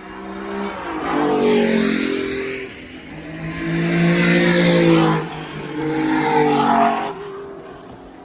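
Porsche race cars passing at speed, three in quick succession, each engine note swelling up and fading away.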